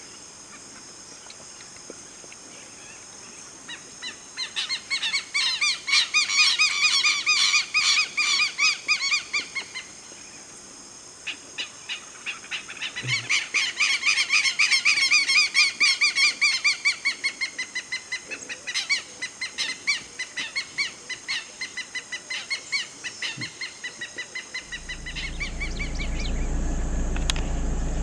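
A bird calling in long runs of rapid, repeated harsh notes, two bouts in all, the second starting about eleven seconds in. A low steady rumble comes in near the end.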